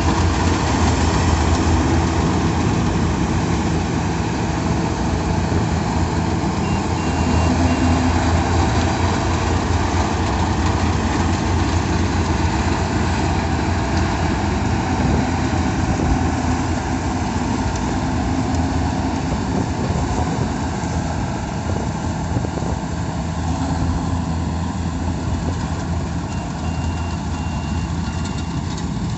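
Yanmar combine harvester running steadily under load with its engine and threshing gear going, with a run of short high beeps about seven seconds in and again near the end.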